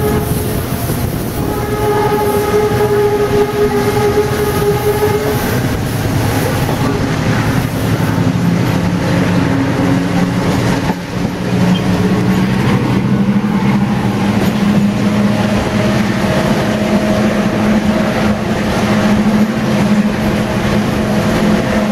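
Diesel train running along the track, heard loud from an open carriage window. Its horn sounds one long steady note for about five seconds at the start, and a steady low engine drone comes in over the rumble of the wheels from about the middle on.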